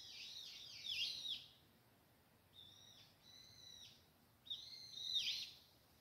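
A songbird singing: three short phrases of quick, high, repeated down-slurred notes, with brief pauses between them.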